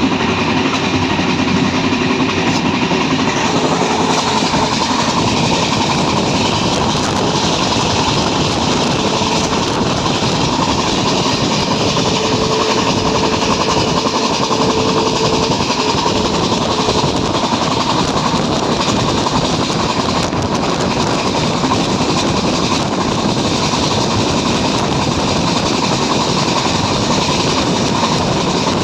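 Train hauled by an Alco diesel locomotive running at speed: a steady loud rumble with wheels clattering over the rails.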